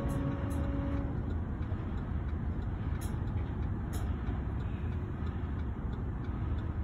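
Freight train boxcars rolling slowly past: a steady low rumble of wheels on the rails with a few light clicks. A steady tone fades out about a second in.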